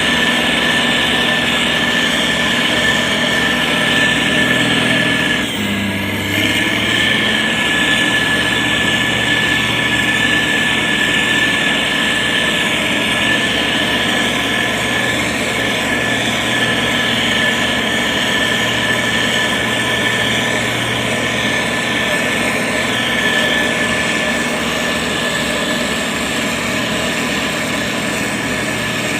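Heavy construction machine's diesel engine running steadily under a steady high whine, with a brief dip and change in pitch about six seconds in.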